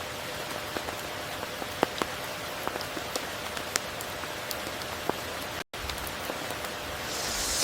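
Steady tropical rain falling, with a constant hiss and scattered individual drops ticking. The sound cuts out for an instant about two-thirds of the way in, and a brighter hiss swells near the end.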